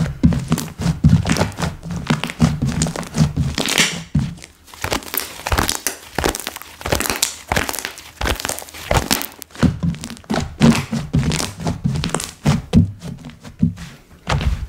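Hands squeezing and pressing slime: a quick, irregular run of soft thunks with sticky clicks and crackles.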